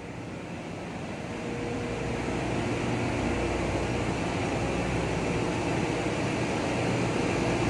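Ship engine room machinery running: a dense steady mechanical hum with a few faint steady tones, getting steadily louder.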